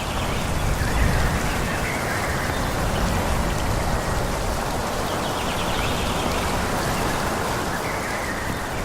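Wind blowing steadily through forest trees, a continuous rush of leaves, swelling in a low gust about a second in.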